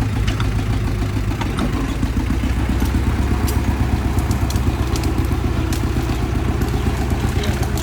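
Kubota M6040 tractor's diesel engine running steadily under load, with a low, fast pulsing note. Scattered sharp clicks and cracks sound over it.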